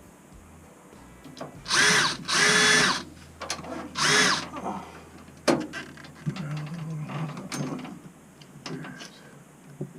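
Cordless power drill/driver run in three short bursts, its motor pitch rising and falling in each, as screws are driven back into the boiler. Sharp clicks and handling clatter follow.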